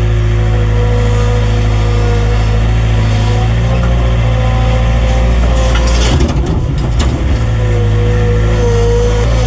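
A heavy engine running steadily close by, its pitch drifting slightly, with a rougher, uneven stretch about six to seven seconds in.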